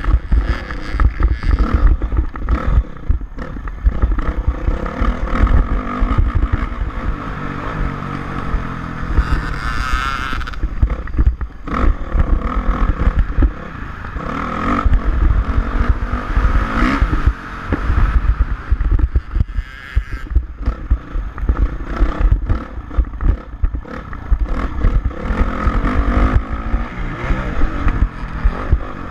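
Motocross dirt bike engine revving up and down as it is ridden, with wind buffeting the microphone and rattling and clattering throughout.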